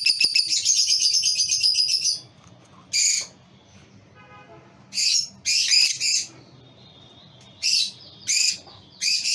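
Lovebirds chirping: a fast run of high chirps for about the first two seconds, then short separate calls every second or so.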